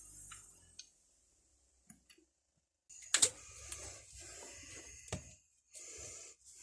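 A few isolated clicks, then rustling and clattering with two sharp knocks, as of objects being picked up and handled on a workbench.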